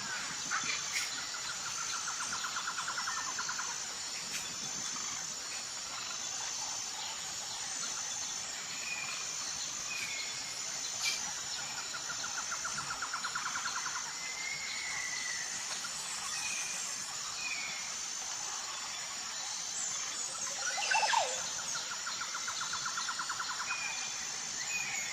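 Outdoor ambience of insects and birds. A steady high insect drone pulses in a regular pattern, with short bird chirps scattered through it. A rapid trill comes three times: near the start, in the middle and near the end, and a louder brief call sounds shortly before the end.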